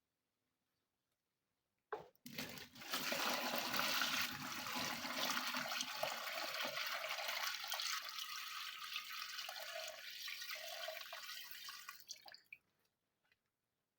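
Water rushing for about ten seconds, starting suddenly after a click, tapering off, with a few gurgles near the end before it stops.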